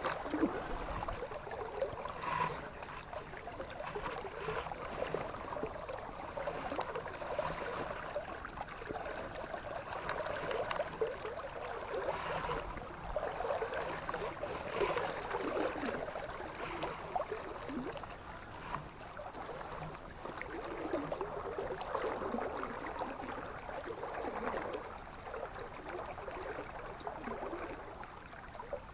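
Flowing river water: a steady rush that swells and eases unevenly.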